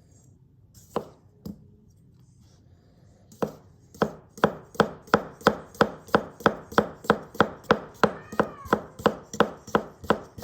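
Global G2 gyuto knife slicing through carrot and tapping the cutting board: two single knocks, then a fast steady run of cuts about three a second. A cat meows once briefly partway through the run.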